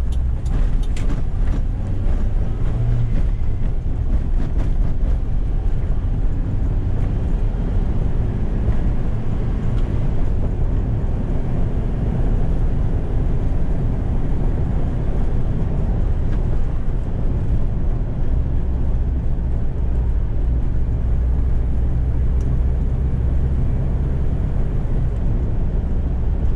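A Toyota 2Y 1.8-litre four-cylinder gasoline engine pulling a small truck on the road, heard from inside the cab together with road noise: a steady drone that shifts in pitch about two-thirds of the way through.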